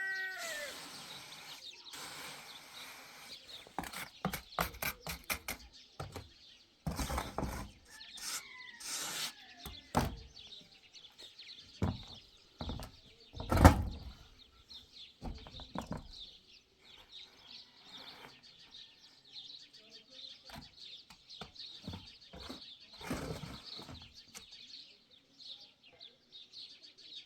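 Scattered knocks and thuds, one much louder about fourteen seconds in, over birds chirping in the background.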